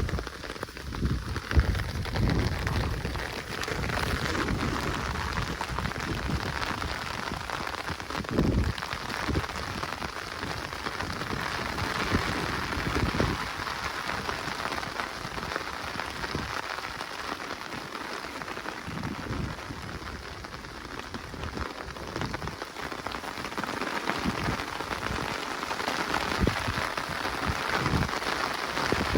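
Steady rain falling in a forest, a continuous patter, with scattered low thumps that come thicker in the first few seconds.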